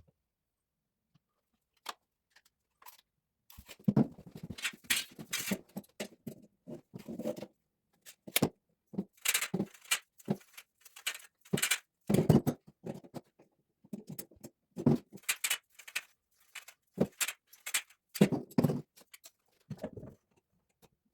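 Irregular knocks, clatters and rattles of hand work, as tools and parts are handled and set down. The sounds start a few seconds in and come in uneven clusters with short pauses.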